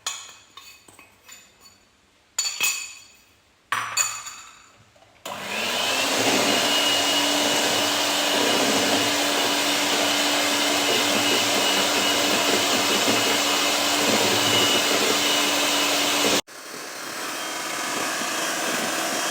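A few light clinks and taps, then about five seconds in an electric egg beater starts and runs steadily, whipping eggs and sugar until fluffy, with a steady hum and a high whine. Near the end it drops abruptly to a quieter steady motor sound.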